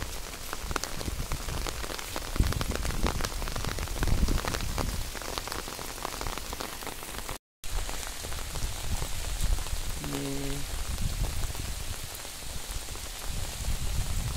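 Steady rain on leaves and floodwater, with close drops ticking and a low rumble underneath. The sound cuts out for a moment about halfway through, and a short low pitched sound comes about ten seconds in.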